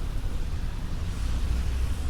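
Rainy street ambience: a steady low rumble, swelling slightly in the second half, under an even hiss of rain.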